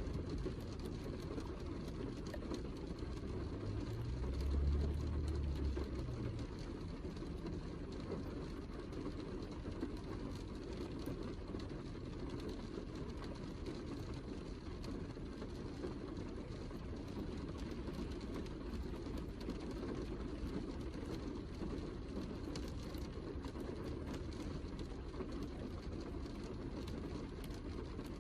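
Steady heavy rain, a dense hiss with fine drop ticks throughout. A low rumble swells briefly about four to six seconds in.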